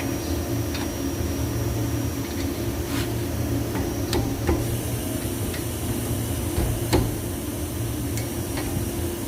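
A steady low machine hum with scattered sharp clicks and knocks, as of metal tools on a car part; the loudest knock comes about seven seconds in.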